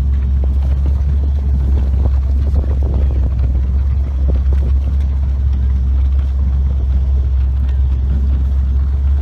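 Motorboat running steadily underway: a loud, even low drone with no change in pitch.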